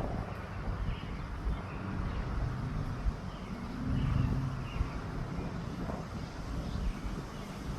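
Wind buffeting the microphone outdoors: an uneven low rumble that swells around the middle.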